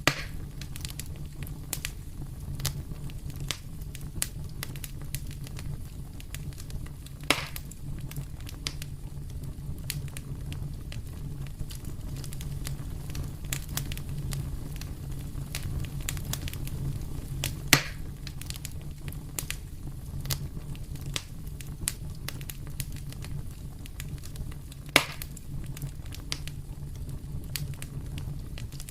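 Fire in a fireplace crackling steadily with many small ticks, over a steady low rumble. Four louder sharp pops come at the start, about a quarter of the way in, past the midpoint and near the end.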